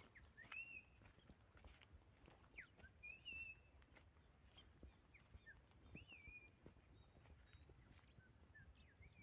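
Faint birdsong: scattered short whistled notes that swoop up and down, a second or two apart, with a few faint clicks in between.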